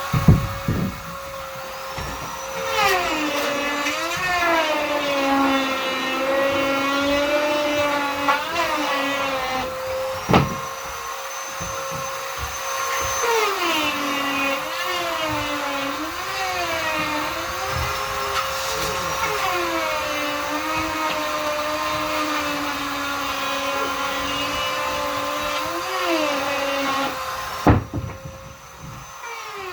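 Vacuum cleaner running with a steady whine, its pitch sliding up and down over and over. A few sharp knocks break in, about ten seconds in and near the end, and the sound briefly drops away just before the end.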